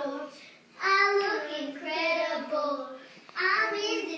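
A child singing unaccompanied in a high voice: a long drawn-out phrase, a short pause, then another phrase starting.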